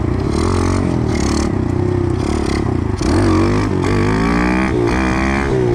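Small single-cylinder four-stroke pit bike engine revving hard as the bike is ridden, its pitch climbing and dropping again and again, louder and more changeable from about halfway.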